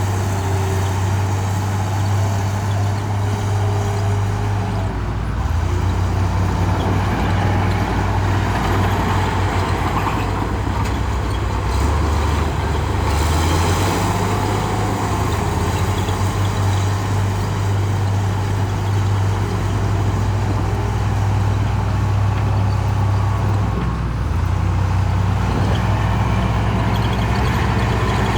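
Bulldozer's heavy diesel engine running steadily under work, its deep engine note shifting a couple of times.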